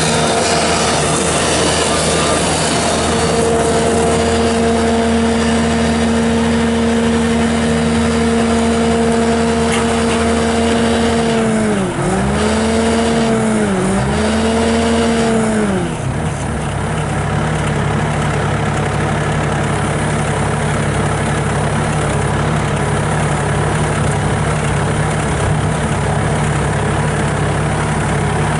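Bobcat S650 skid steer's Kubota V3307 diesel running at high throttle with a steady drone. The pitch sags and recovers twice, as the engine is loaded while the machine drives and shuttles direction. A little past halfway it drops to a lower, steady idle.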